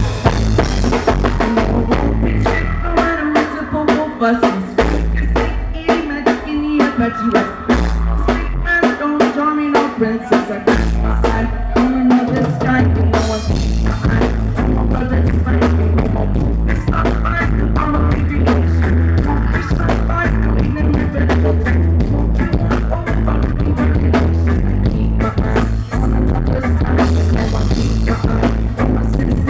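Live rock band playing: a drum kit keeping a steady beat over bass and guitar, the low end filling out about halfway through.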